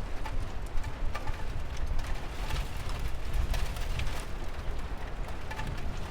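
Steady rain with a deep low rumble beneath it, and many scattered drops ticking sharply on a hard surface.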